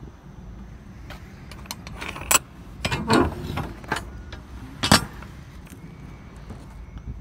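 Metal hardware on a box truck being handled: a run of clicks and rattles, a scraping clatter about three seconds in and one sharp clank near five seconds, over a low wind rumble.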